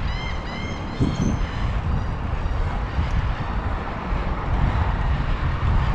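Wind buffeting the microphone during a bike ride, a steady low rumble. In the first second a bird gives a quick run of short, arched calls.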